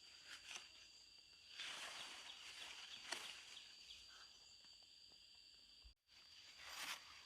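Quiet rural outdoor ambience: a steady high-pitched insect drone, with soft rustling and light footsteps coming and going. The sound cuts out for a moment near the end.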